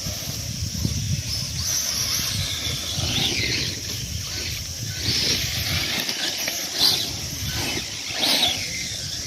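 Radio-controlled short course trucks racing, their motors whining up and down in pitch several times as they pass.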